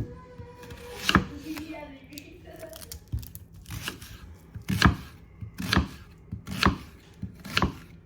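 Kitchen knife cutting onions on a cutting board: a series of sharp knife strikes against the board, about one a second.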